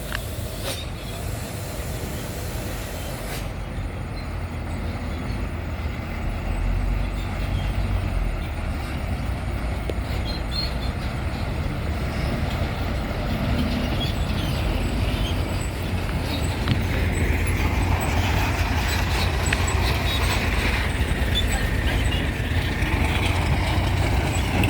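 Heavy diesel truck engine running, its low rumble growing gradually louder, with a higher hissing noise added over the last several seconds.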